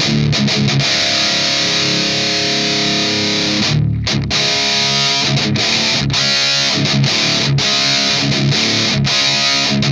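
Overdriven electric guitar playing a distorted riff, with a short break about four seconds in and several brief stops between phrases later on.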